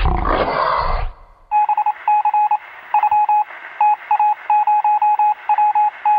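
Telephone sound effect from iMovie's library: a short noisy burst, then touch-tone keypad beeps in quick irregular runs over a hissy, narrow telephone line.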